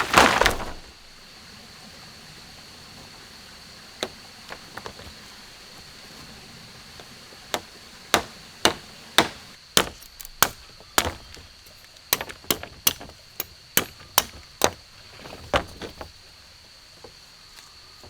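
A run of sharp, separate chopping strikes, roughly two a second and unevenly spaced, from about seven and a half to sixteen seconds in. A short loud burst of noise comes right at the start, and a steady high-pitched drone sits underneath throughout.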